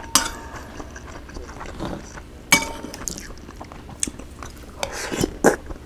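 Eating utensils clinking against a dish a few times; the sharpest strike, about two and a half seconds in, leaves a brief ringing tone.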